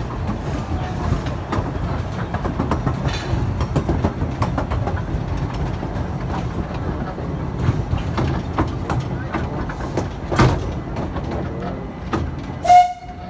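Amusement-park train running on its track: a steady low rumble with irregular clicks and clacks from the wheels and rail joints. Near the end comes one short, loud pitched tone.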